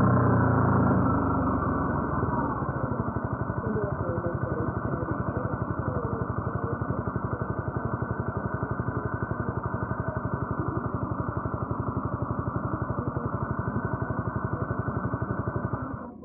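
Honda CBR250R's single-cylinder engine coming down off the revs, its pitch falling over the first couple of seconds, then idling with a steady, even pulse. The sound falls away suddenly near the end.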